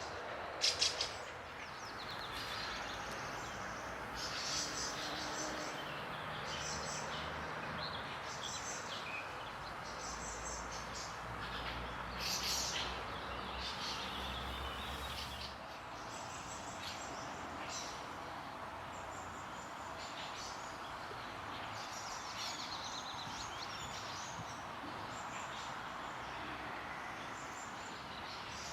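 Songbirds chirping and calling in short, repeated high phrases over a steady background hum of outdoor noise. A low rumble swells for several seconds in the middle, and two sharp clicks come about a second in.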